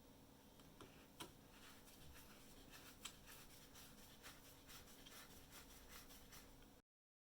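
Faint small clicks, ticks and scratches of hand work over a low steady hum, with two sharper ticks; the sound cuts off abruptly to dead silence near the end.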